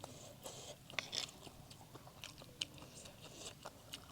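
A person chewing and biting food close to the microphone: a string of short wet mouth clicks and crunchy bites.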